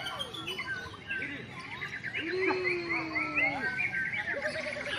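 Many songbirds singing over one another: overlapping chirps, trills and whistles, with a fast run of repeated rising notes in the middle.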